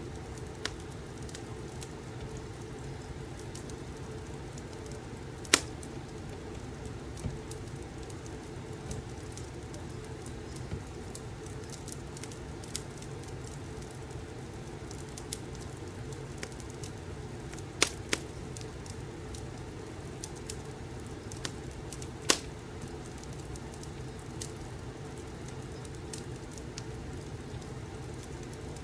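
Wood fire crackling in a fireplace: a steady low rumble with scattered sharp pops, the loudest about six seconds in, two close together near eighteen seconds, and one near twenty-two seconds.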